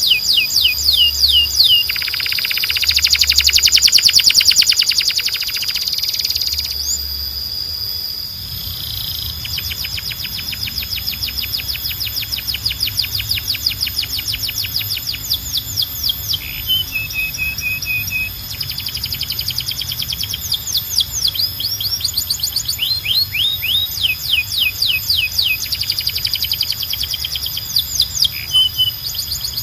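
Domestic canary singing a long, fast song of rapidly repeated sweeping notes. A few seconds in, it switches to a dense buzzy roll, the loudest part, then goes back to quick trilled runs that continue throughout.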